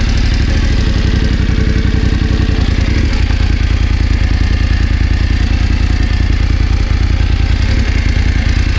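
BMW F900GS's parallel-twin engine running at a steady idle, freshly started, with an even low pulse and no revving.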